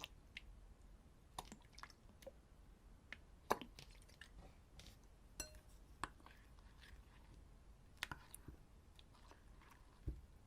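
Faint, scattered sticky clicks and small squishes of slime being mixed and handled, with an occasional light clink of a container.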